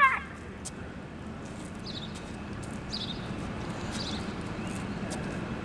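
Steady outdoor background noise with a small bird chirping: short, high chirps falling in pitch, about one a second, about two, three and four seconds in.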